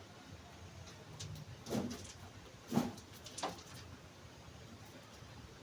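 Three short knocks about a second in, near the middle and half a second later, the middle one the loudest.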